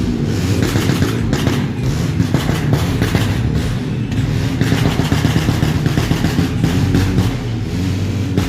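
Motor vehicle engines running loudly: a rough, steady low rumble with irregular knocks and rattles.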